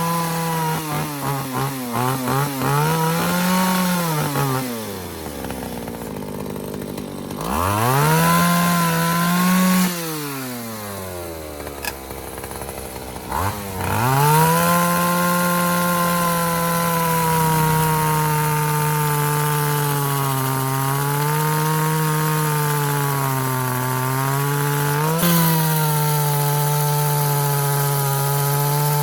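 ECHO two-stroke chainsaw engine running after restoration: revved high, let fall back toward idle twice, then held at high revs with small dips in speed for the rest.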